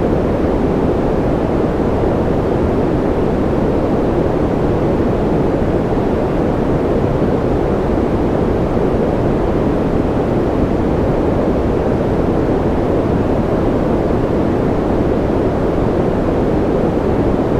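Steady white-noise ambience: an even, dull, low-pitched hiss with no separate drops, tones or changes.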